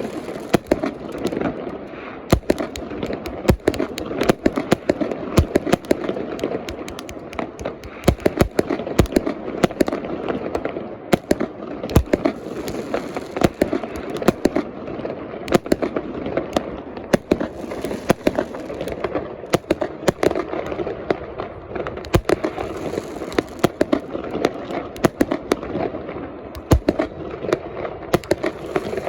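Fireworks display: an unbroken series of sharp bangs and pops, several a second, over a steady crackling din.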